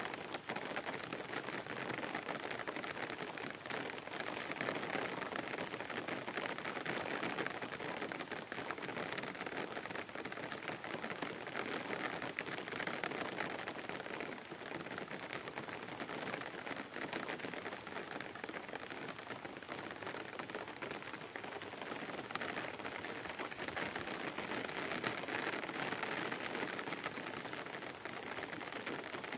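Steady rain falling: an even hiss of many fine drops, unbroken throughout.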